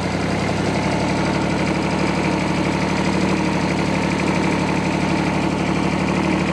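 1957 Porsche P133 tractor's air-cooled three-cylinder diesel engine running steadily under way in fourth gear, with a rapid, even pulsing at a constant pitch.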